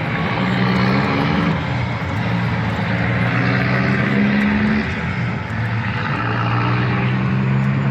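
A steady motor drone with a low, slightly wavering hum, running without a break.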